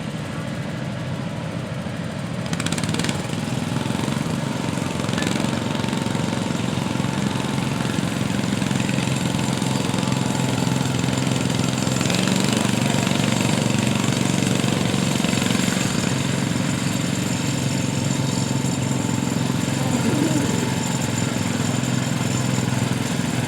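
Garden tractor engine running steadily at high revs, getting louder about three seconds in.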